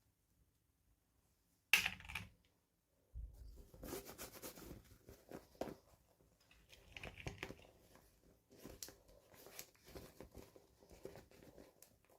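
Toy packaging being handled and opened: a sharp snap or pop a couple of seconds in, then irregular rustling, crinkling and tearing of plastic and cardboard with small clicks.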